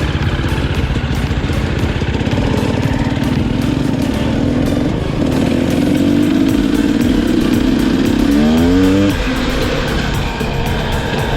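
KTM EXC 250 enduro motorcycle engine running steadily, with the revs climbing quickly a little past the middle.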